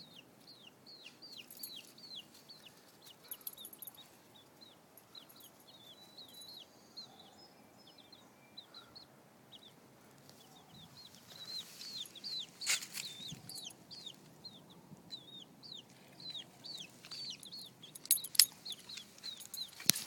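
Baby chicks peeping over and over, short high down-sliding peeps a few times a second. A couple of sharp knocks cut in, the loudest about two-thirds of the way through.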